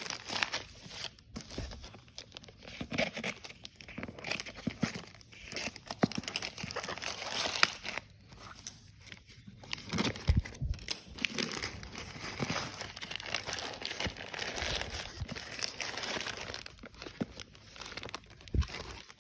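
Packaging being handled and opened: irregular crinkling and crackling with occasional tearing, stopping abruptly at the end.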